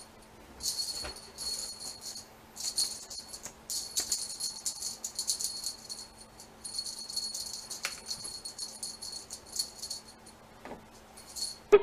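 A small bell jingling in irregular shaken runs, each lasting under a second to about two seconds, with short gaps between them.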